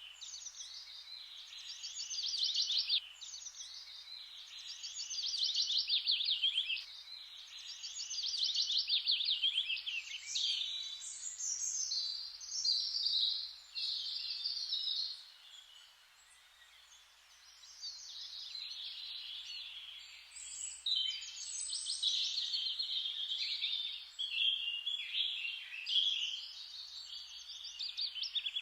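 Songbirds singing: a rapid trill that falls in pitch, repeated three times about every three seconds, then a jumble of varied high chirps, with a quieter spell around the middle.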